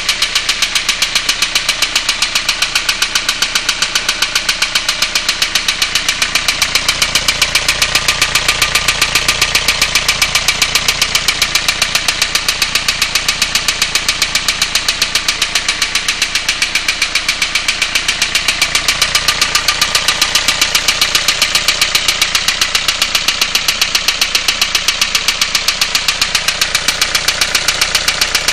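Renault Clio 1.5 dCi four-cylinder common-rail diesel engine idling with a loud, rapid, evenly spaced knock. Oil has been found over three of the injectors and the glow plugs, and the owner does not yet know the cause and means to take the head off.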